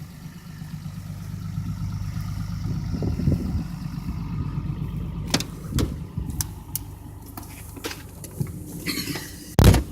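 Cummins diesel engine in a pickup truck with stock exhaust, idling steadily just after a cold start. A few sharp clicks come a little past the middle, and a loud thump comes near the end.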